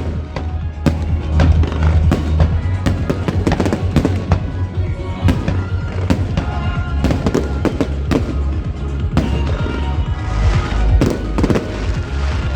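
Aerial fireworks bursting in quick succession, many sharp bangs and crackles, over hip-hop music with a steady deep bass.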